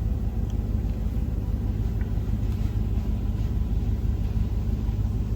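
D&S 5000 in-bay automatic car wash spraying a truck, heard from inside the cab as a steady low rumble of water hitting the body.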